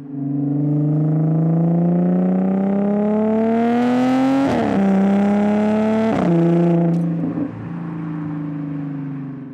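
Audi S4's 3.0 TFSI supercharged V6 through a straight-through exhaust with the rear silencers deleted, accelerating hard: the engine note climbs steadily, drops sharply with a crack at two upshifts about four and a half and six seconds in, then the throttle eases off and the note settles lower.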